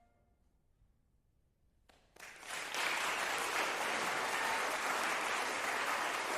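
Audience applause: after about two seconds of near silence, the applause starts suddenly, reaches full level within a second and keeps going steadily.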